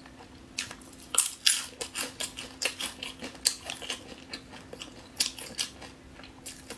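Crunching from chewing crispy fried seafood: irregular sharp crackles several times a second, over a faint steady hum.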